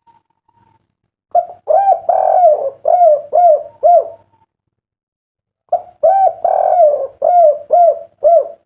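Derkuku (island collared dove) cooing: two song phrases a couple of seconds apart. Each opens with a short note and a long rolling coo and ends in a run of short, clipped 'kuk' notes, the kuk-3 song style.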